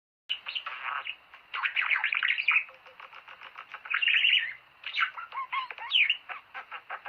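Budgerigars chattering: a fast run of clicks and chirps mixed with short warbled, whistled phrases, starting a moment in after a brief silence.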